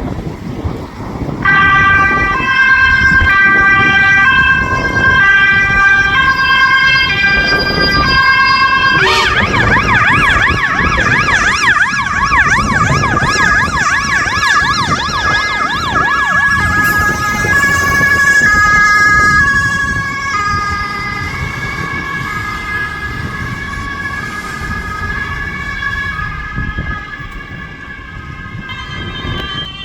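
Emergency vehicle's two-tone siren sounding loudly, alternating high and low, with a fast warbling siren sounding over it for several seconds about nine seconds in. The siren then continues and fades as the vehicle moves away, over road traffic noise.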